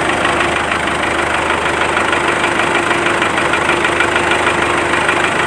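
Small DC motor running steadily, with a fast buzzing rattle and a steady whine.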